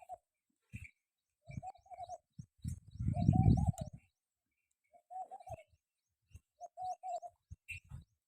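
Pigeons cooing in short repeated phrases, with faint small-bird chirps. Bursts of low rumble come and go, loudest about three seconds in.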